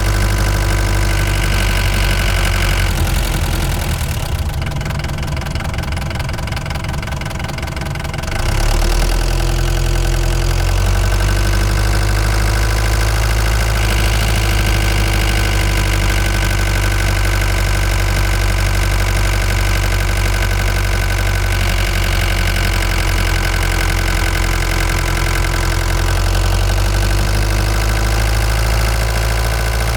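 Ford Transit Mk5 van's engine running while driving, a steady low hum. About four seconds in it goes quieter for a few seconds, then comes back at full strength about eight seconds in.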